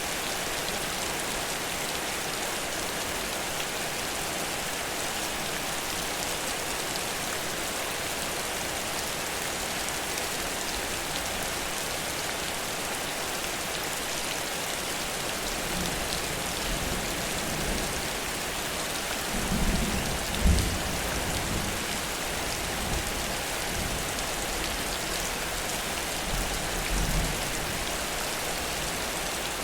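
Heavy rain pouring steadily, with low rumbles of thunder in the second half, the loudest about twenty seconds in.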